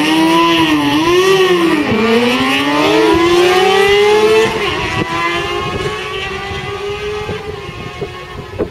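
Sport-bike engine accelerating hard down a drag strip: revs climb and drop back at gear changes in the first two seconds, then a long climb until about four and a half seconds in, after which the sound fades as the bike pulls away.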